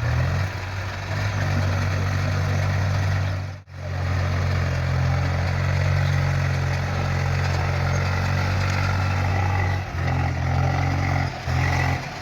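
Diesel engine of a heavy machine, a tractor or JCB backhoe loader, running steadily. The sound drops out briefly about three and a half seconds in and dips twice near the end.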